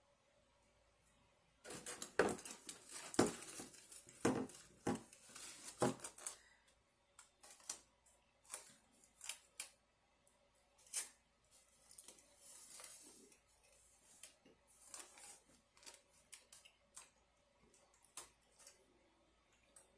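Close-miked eating of quesabirria tacos: a few seconds of dense crackly crunching and rustling, then scattered short clicks, smacks and crackles of chewing and handling the food.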